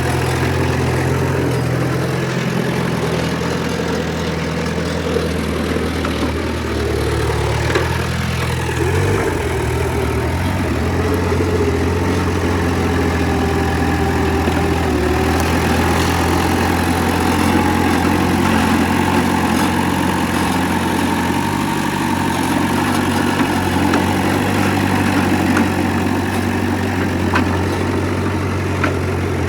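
Heavy diesel earthmoving machinery running steadily, its low engine note shifting once about nine seconds in.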